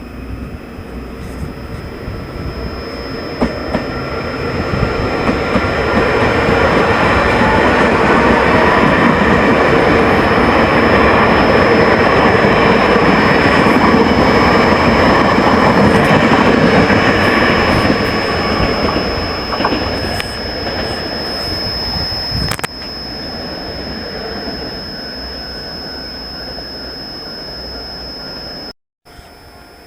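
A Taiwan Railway train running past, its rumble and wheel clatter building to a loud peak and then easing off. A steady high-pitched tone sits over it throughout. The sound drops suddenly about 22 seconds in.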